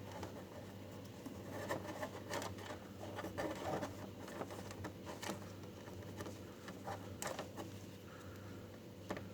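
Light clicks, taps and scraping of small parts being handled and tried for fit in a freezer light housing, over a steady low hum.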